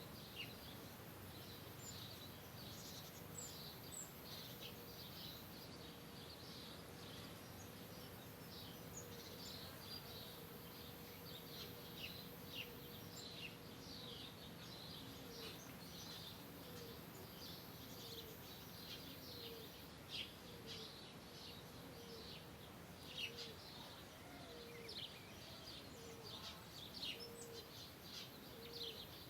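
Birds chirping: many short, high chirps overlapping throughout, faint over a steady outdoor background hiss. A lower note holds steady at first, then repeats about once a second from midway on.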